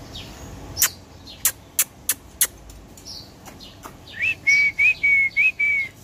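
Birds chirping, with a run of four clear whistled notes in the second half, each rising then held. Five sharp clicks in the first half are as loud as the notes.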